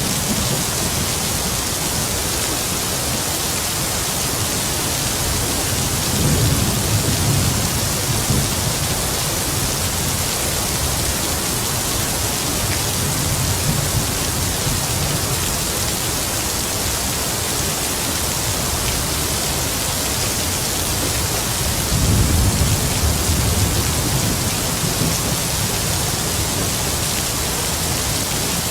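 Heavy rain falling steadily with a constant hiss, and distant thunder rumbling low twice, about a quarter of the way in and again about three-quarters of the way through.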